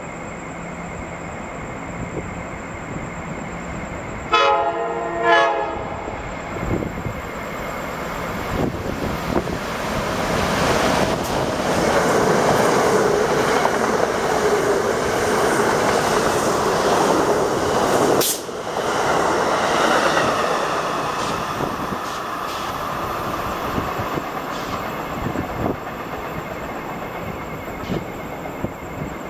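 Amtrak passenger train's horn sounds two short blasts a few seconds in. The train then passes close at speed, a loud rush of wheels and cars that builds, holds for several seconds and then tapers off.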